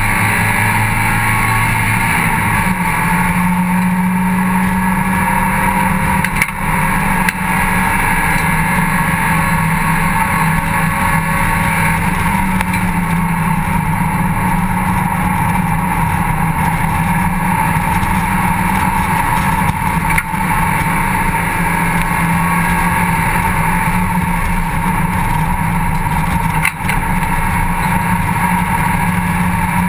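Mazda MX-5 Cup race car's four-cylinder engine running hard at speed on track, heard from inside the open cockpit with wind noise. The engine note stays fairly steady with small pitch changes, and the sound drops briefly a few times.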